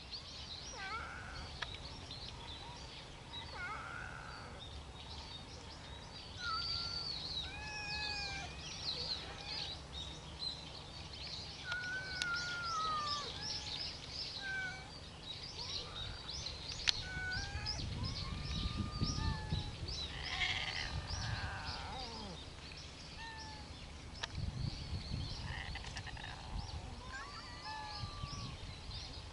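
Wild birds singing and calling, many short chirped and whistled notes overlapping. Under them runs a low rumbling noise that swells in gusts in the second half, with a single sharp click about halfway through.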